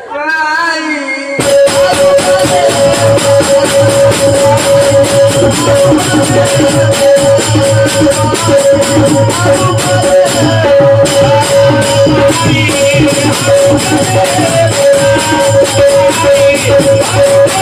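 Devotional folk-music accompaniment: a steady held note, a regular drum beat and jingling percussion, coming in about a second and a half after a sung phrase trails off.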